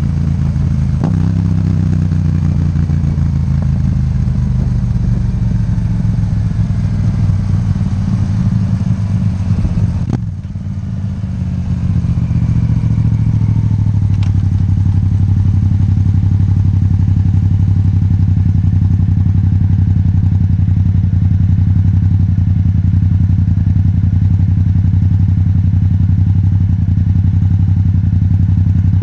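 Yamaha MT-07 parallel-twin engine running through an Akrapovic titanium exhaust, its pitch gliding over the first ten seconds. About ten seconds in there is a sharp click and a brief drop in level, after which the engine settles into a steady, even note.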